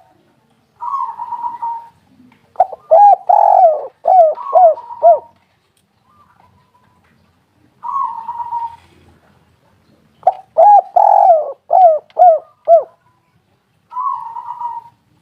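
Spotted dove (tekukur) cooing in repeated song phrases. Each phrase is a buzzy rolling note about a second long, followed by a quick run of five or six short coos. Two full phrases come a few seconds apart, and a third begins near the end.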